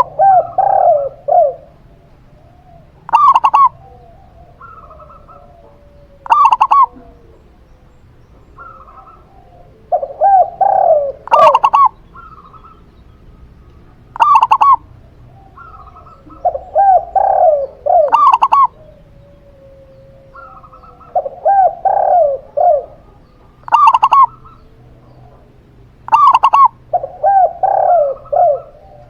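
A zebra dove (perkutut) and a spotted dove (tekukur) cooing, their short phrases of rolling coos coming every few seconds, some higher-pitched and some lower.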